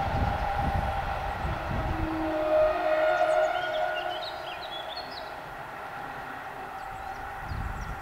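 Electric multiple unit moving away over railway points: its rumble fades steadily, with a few steady whining tones over it, loudest about two to three seconds in, before it dies down.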